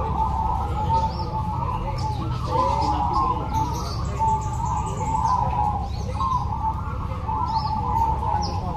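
Many zebra doves (perkutut) cooing at once, their overlapping calls running on without a break, with short high chirps above them and a steady low rumble underneath.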